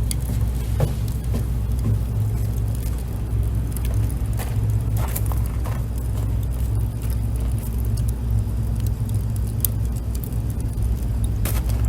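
Steady low rumble of wind on the microphone, with a few faint, scattered crackles from a wood campfire.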